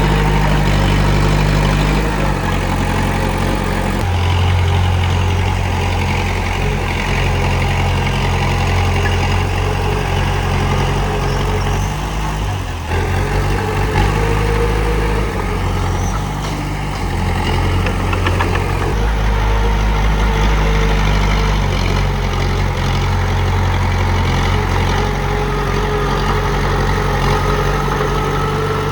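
Diesel engine of a Komatsu D31P crawler bulldozer running steadily under work, its low note shifting every few seconds as the load changes, with a faint whine on top.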